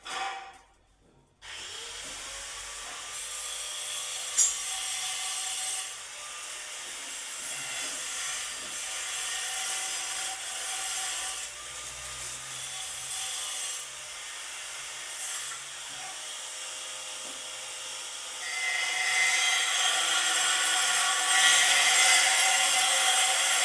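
A steady rasping noise of a tool working a material. It starts about a second and a half in and grows louder near the end.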